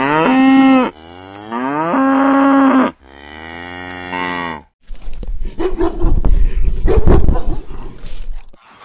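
Cattle mooing: three long, pitched moos, the first rising then holding, the last falling away, followed by a rougher stretch of lowing mixed with rumble.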